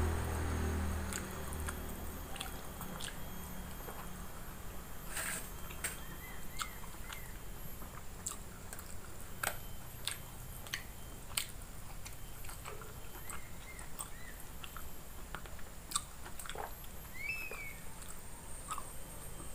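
Close-miked chewing and mouth sounds of a person eating rice with jengkol stew by hand, with many small scattered clicks and lip smacks. Background music fades out at the very start.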